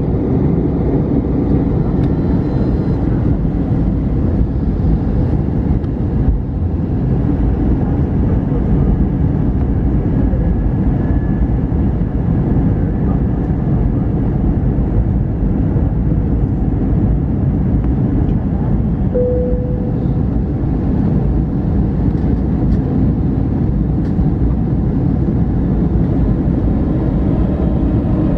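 Steady cabin noise inside an Airbus A321neo airliner in flight on approach: an even, low rush of engine and airflow noise. A brief single tone sounds about two-thirds of the way through.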